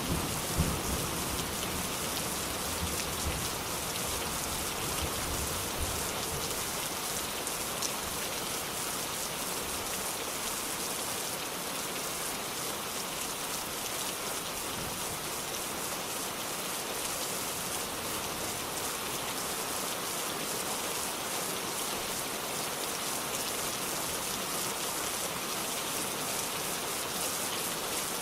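Steady rain falling. A low thunder rumble dies away over the first few seconds.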